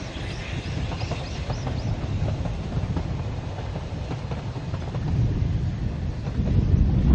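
Distant narrow-gauge train on the Ffestiniog Railway approaching: a low rumble of wheels on the rails that grows gradually louder.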